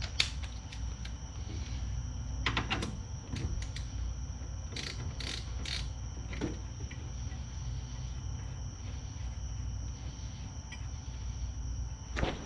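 Socket wrench and extension clicking in short bursts with scattered metallic clicks and knocks as caliper bracket bolts are run down and torqued, over a steady faint high-pitched whine.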